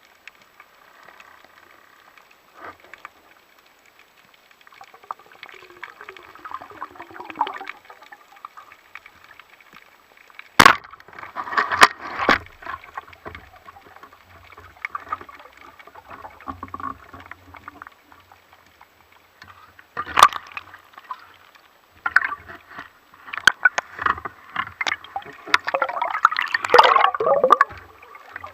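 Sea water sloshing and gurgling around a spearfisher swimming in shallow water, with a few sharp clicks or knocks, the loudest about a third of the way in and about two-thirds in. Near the end the sloshing and gurgling swell up.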